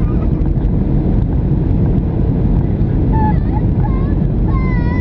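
Steady low rumble of a Boeing 737-700's jet engines and airframe heard inside the cabin as the airliner rolls on the ground after landing, with brief snatches of passengers' voices about three seconds in and near the end.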